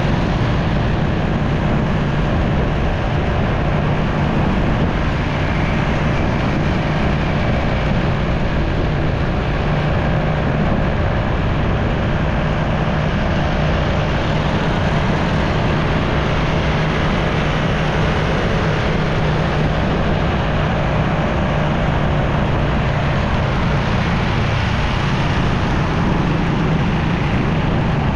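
Riding a motorcycle in road traffic: the bike's engine runs with a steady low hum under a constant rush of road and wind noise.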